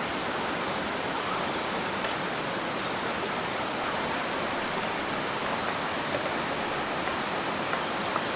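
Mountain stream rushing steadily, its flow strong and swollen with rainy-season water. A few faint small clicks sound near the end.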